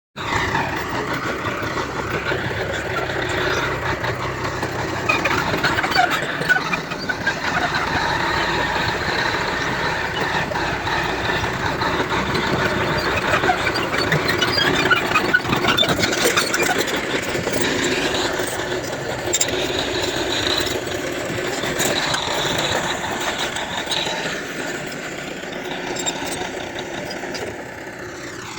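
Heavy earthmoving machinery at work: diesel engines running under load, with scattered metallic squeaks and clicks throughout.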